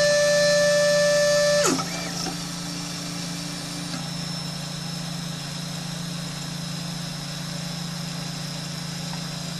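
Solidoodle 3D printer's stepper motors whining with a steady high pitch while homing. The whine drops away sharply with a quick falling glide just under two seconds in, leaving a quieter steady low hum.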